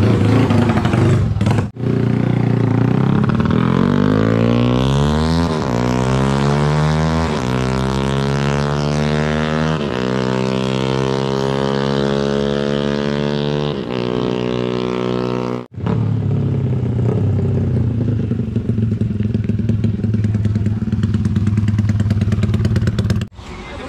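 Motorcycle engine revving hard through the gears, its pitch climbing and falling back at each shift about four times. After a short break it runs at a steadier, lower speed.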